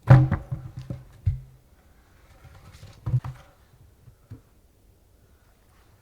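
Dull thumps and knocks of objects being handled in a small enclosed space: a burst of several knocks, then two more about three seconds in.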